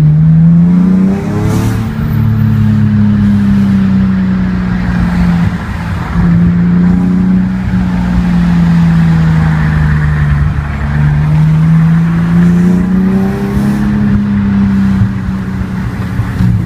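BMW Z4 M's straight-six engine through a Supersprint exhaust under way. Its note climbs hard in the first second and a half, then falls slowly as the car eases off, and climbs again about eleven seconds in before levelling.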